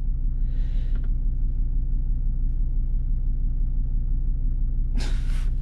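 Car engine idling steadily, a low even rumble, with brief soft hisses about half a second in and again near the end.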